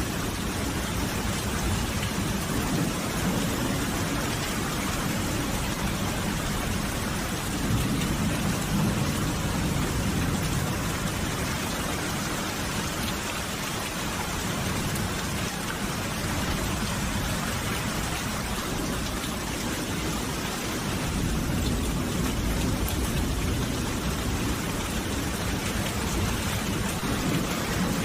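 Steady rain falling, with a low rumble that swells in the first half.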